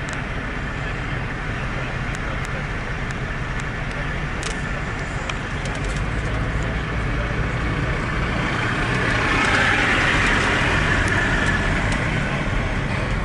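Steady road traffic noise with a low engine hum underneath. It swells louder for a few seconds about two-thirds of the way through.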